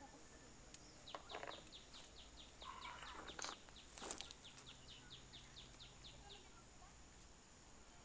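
A bird calling faintly: a long run of short, quick falling notes, about four a second, lasting around five seconds. A steady thin high tone sits behind it, and a few brief rustles break in.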